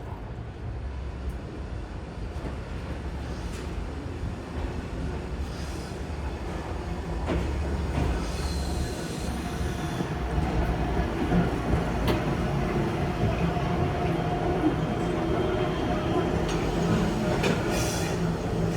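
Train running on rails, growing steadily louder, with high-pitched wheel squeal rising briefly around the middle and again near the end.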